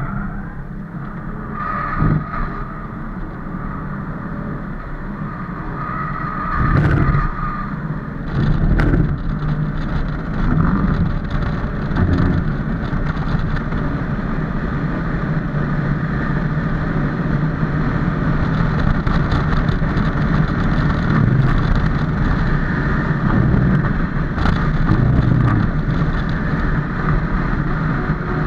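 Kia Stinger GTS's twin-turbo V6 running under hard load on track, heard from inside the cabin with steady road and wind noise. A few short thumps come around seven and nine seconds in.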